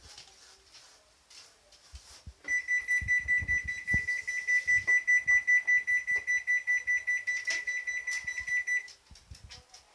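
Hitachi BD-V5700 drum washing machine's electronic alarm, a rapid run of high single-pitch beeps lasting about six seconds, starting a couple of seconds in: the warning that goes with its C02 error code.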